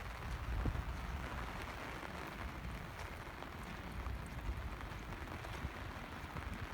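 Steady rain falling: an even hiss with scattered small drop ticks over a low rumble.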